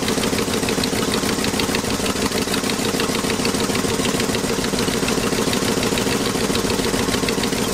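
Ford 460 V8 idling unevenly, missing on one cylinder.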